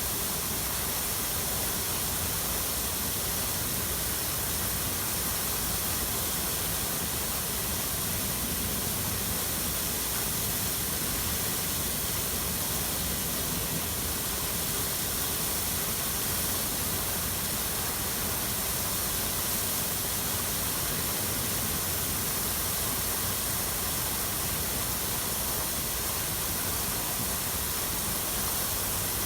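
Running water: a steady, even rush with no swells or breaks.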